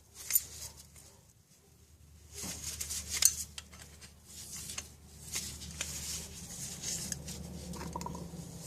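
Small metal clicks and clinks from handling a bicycle axle and its hub parts, a few sharper knocks among them. A low steady hum comes in about two and a half seconds in.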